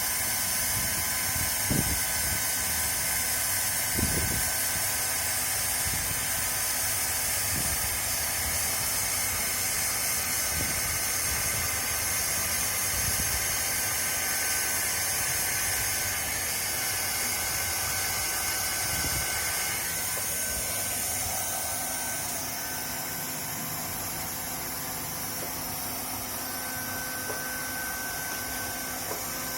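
LST1600A handheld hot-air plastic welder blowing a steady hiss of hot air, with a few light knocks in the first few seconds. The hiss drops a little in level about two-thirds of the way in.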